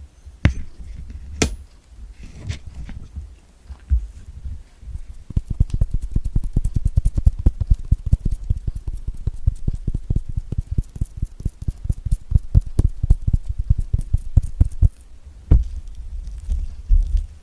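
Fingers rapidly tapping on kiwi fruit: a fast, dense drumming of soft, dull taps that starts about five seconds in and thins to a few scattered thumps near the end. Before the tapping begins there are a few isolated sharp clicks.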